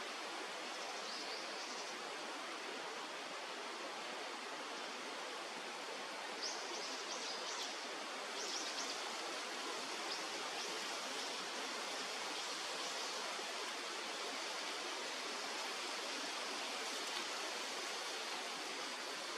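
Steady rush of flowing river water, with a few faint high-pitched chirps about a second in and again around the middle.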